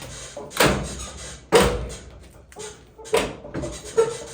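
A series of sharp knocks and clanks, five or six at irregular intervals, each with a short ringing tail, like hard objects being handled and set down.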